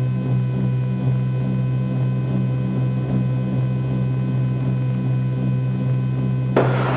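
Cessna 310Q's twin piston engines and propellers at climb power just after takeoff, a steady drone with a regular throb, heard in the cockpit. A brief hiss sounds near the end.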